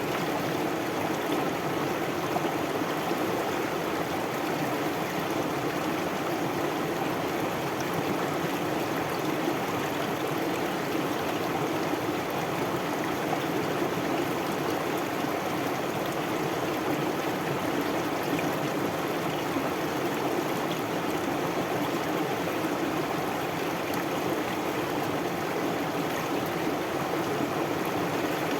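Stream water flowing steadily over rocks, a continuous rushing babble with no breaks.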